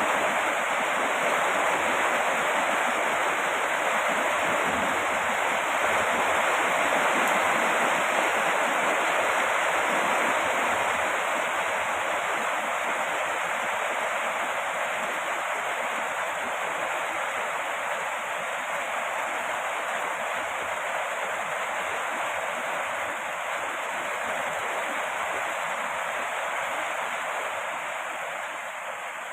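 Rain falling steadily, a dense even hiss of countless drops, easing slightly in loudness from about ten seconds in.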